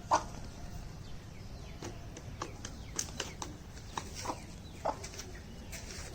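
A chicken giving a few short, soft clucks, spread out, among scattered light clicks and rustles.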